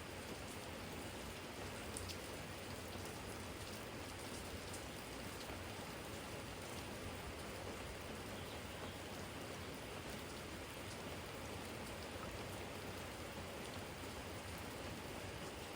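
Steady spring rain falling on a garden jar and the yard around it: an even hiss with scattered faint drop ticks.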